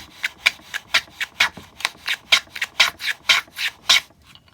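Quick, evenly paced abrading strokes on a small piece of lime wood, about four a second, stopping about four seconds in: the piece is being taken down where it is too wide to fit its slot.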